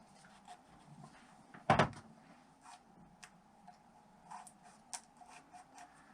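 Small metal clicks and taps of hand tools working a motorcycle engine's valve adjuster during valve-clearance setting, with one louder knock about a second and a half in.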